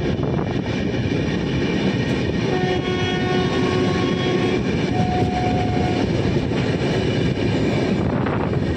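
Steady running noise of a passenger train at speed, heard at an open coach door. A locomotive horn sounds faintly twice over it: a held note of about two seconds from around two and a half seconds in, then a shorter one about five seconds in. Near the end, wind gusts on the microphone.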